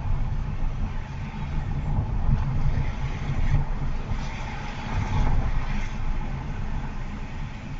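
Steady low road rumble and tyre noise of a Honda HR-V e:HEV hybrid driving along.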